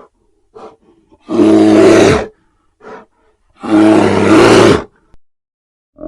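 Big cat roaring: two loud roars of about a second each, with short, quieter calls between them.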